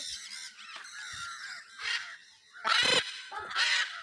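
Parrots squawking: softer, higher calls at first, then two loud, harsh squawks in the last second and a half, the first the louder.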